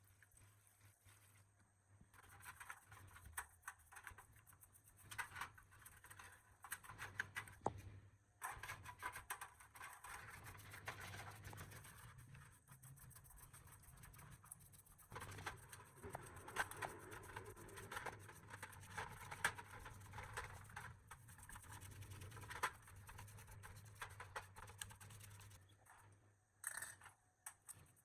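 Faint scratching and scraping with many small clicks, starting about two seconds in and pausing briefly a few times, over a steady low hum.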